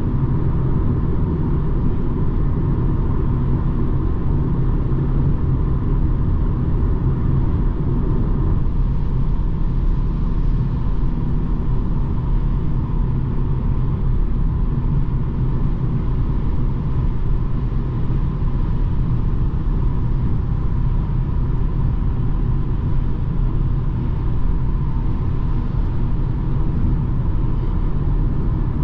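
BMW 220d xDrive Gran Coupe driving: the steady low rumble of its four-cylinder turbodiesel and the tyre and road noise at cruising speed. The rumble eases slightly about eight seconds in.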